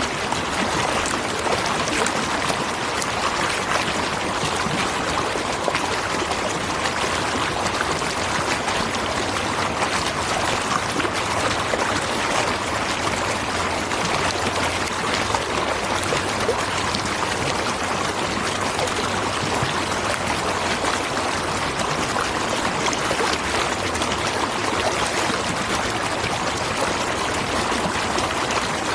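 Waterfall: falling water splashing and rushing in a steady, unbroken wash.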